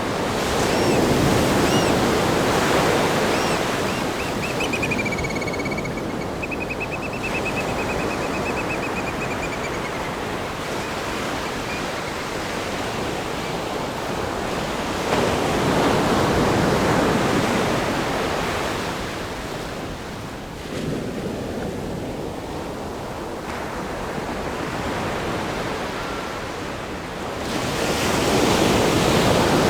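Ocean surf breaking on a rock groin and washing over a sandy beach: a continuous rush that swells three times, about a second in, around fifteen seconds in and near the end. A faint, high wavering call sounds briefly between about four and ten seconds in.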